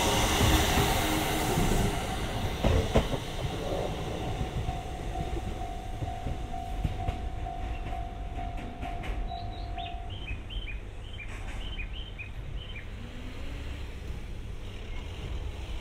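A train running along the track, loudest at first and then fading as it moves away, with wheels clacking over the rail joints.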